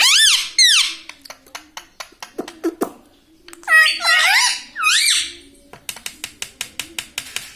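Indian ringneck parrot giving squeaky calls that rise and fall in pitch: a short group at the start and another in the middle. A rapid run of sharp clicks follows near the end.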